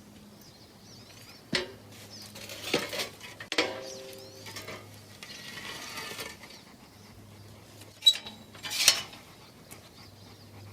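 Metal clanking and scraping as a cast-iron small-block Chevy V8 engine block is wrestled into a pickup's bed: several sharp clanks, one ringing briefly, and a scrape midway.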